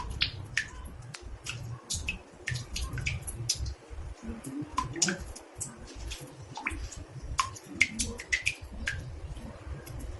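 Water drops falling into a bathtub: irregular plinks, about two or three a second, each with a short pitched ring, over a low background rumble.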